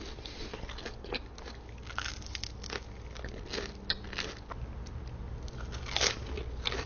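Close-up eating sounds: biting into and chewing a crispy panko-coated Korean corn dog, with scattered crunches and crackles.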